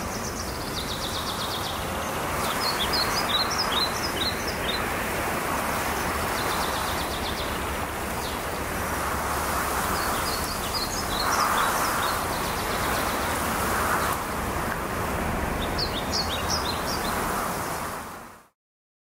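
Steady rush of wind outdoors, with small songbirds chirping and giving quick trills in short bursts several times. The sound cuts out just before the end.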